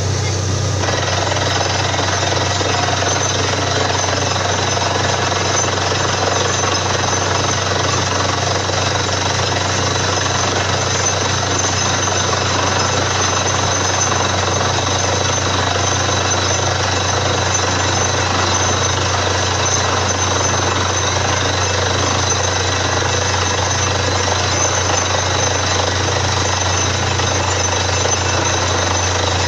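Borewell drilling rig drilling: a loud, steady hammering rattle over the low drone of the rig's engine, thickening about a second in and then holding even.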